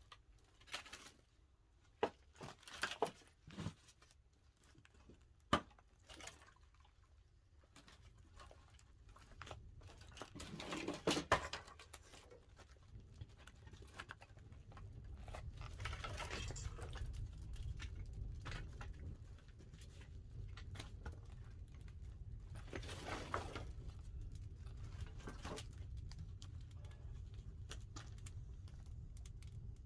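Pine firewood crackling and popping as it burns in a wood-fired pottery kiln, with scattered sharp snaps at first. A low rumble sets in and grows after a few seconds, with a louder crackling spell about eleven seconds in.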